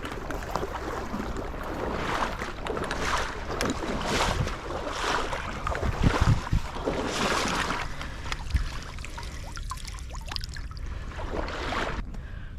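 Kayak paddle strokes in water: a rhythmic swish and splash about once a second, with a few knocks against the hull.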